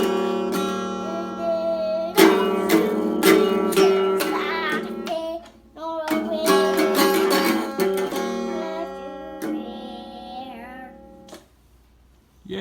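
Acoustic guitar strummed in a few hard chords that ring out, with a child singing a few lines over it. The guitar fades away near the end.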